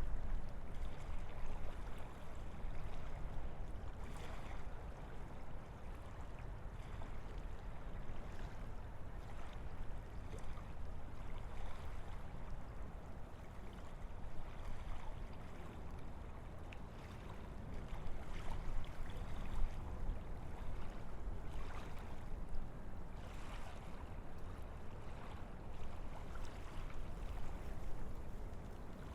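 Wind blowing through a forest: a steady rushing noise with a deep rumble underneath, swelling a little now and then.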